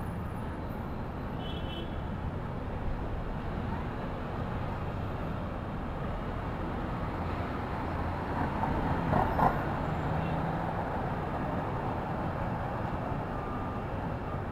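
New York City street traffic: a steady low rumble of passing cars and trucks, with one vehicle passing louder about nine seconds in, ending in a short sharp click.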